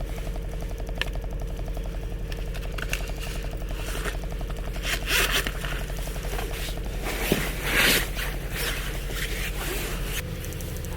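Car engine running, heard from inside the cabin as a steady low hum with a fast, even pulse. Two brief scraping or rustling noises come about halfway through and again a few seconds later, and the engine sound shifts near the end.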